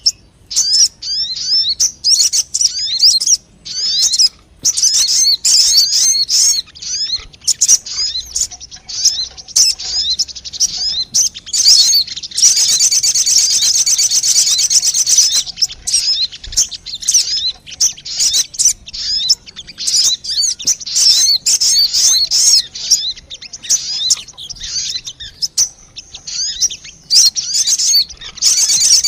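Lure recording of sogon bird calls: rapid, high-pitched chirps and short sliding notes in quick runs, with brief pauses between phrases.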